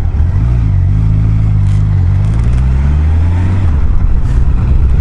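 Honda CBR1000F inline-four engine running at low revs while riding, its pitch shifting slightly and dropping away a little after three seconds in, over steady wind rush on the helmet microphone.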